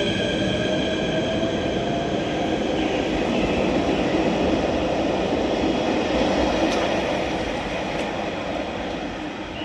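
A train running through the station; its running noise builds up, then fades near the end. At the start a steady high squeal dies away, and a tone rises slowly as the train moves.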